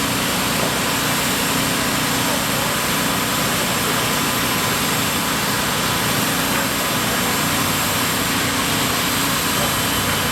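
A machine or engine running steadily, with a faint steady whine.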